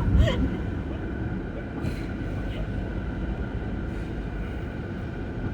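Steady low rumble of a moving vehicle, with a faint constant whine above it and a brief click about a quarter of a second in.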